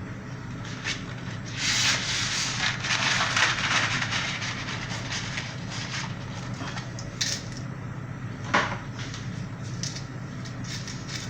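Cooking noises at a pot of boiling pasta: a rush of hiss starting about two seconds in and lasting a couple of seconds, with light scrapes and clicks from handling, over a steady low hum.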